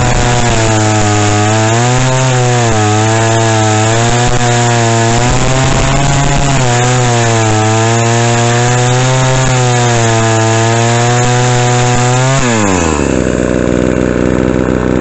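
Craftsman S205 two-stroke chainsaw engine running at high revs on a newly fitted replacement carburetor, its pitch wavering slightly. About twelve seconds in, the throttle is let off and it falls quickly to a steady idle.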